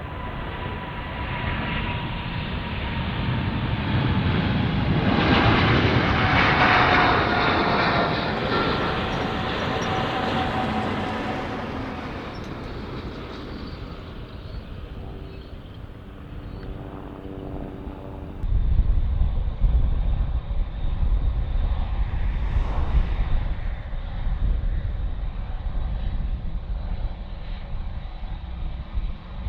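Jet airliner passing by: its engine whine slowly falls in pitch through a rising roar, which peaks a few seconds in and then fades. About two-thirds of the way through, a sudden loud low rumble starts and keeps going.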